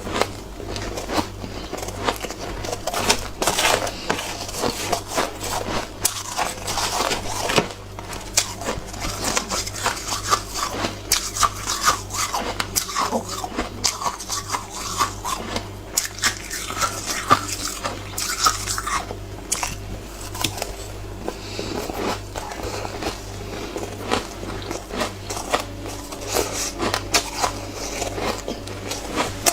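A person biting and chewing hard, frosty shaved ice: a steady run of crisp, irregular crunches, with a low hum underneath.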